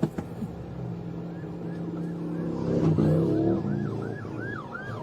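Police car siren on a fast yelp, sweeping up and down about four times a second and growing louder about two and a half seconds in, over a vehicle engine running hard.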